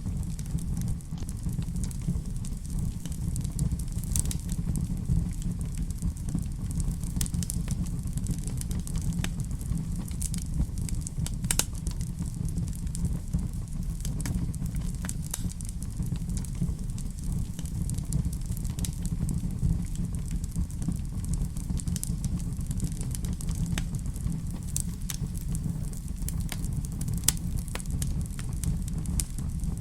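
Wood fire crackling in a fireplace: a steady low rumble with scattered sharp pops and snaps throughout.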